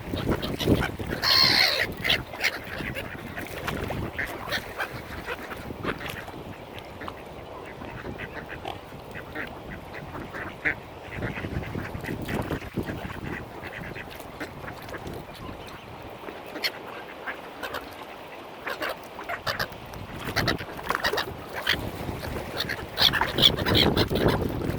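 Mallard ducks quacking among other waterfowl calls, in short scattered calls. There is a loud call about a second in and a denser run of calls near the end.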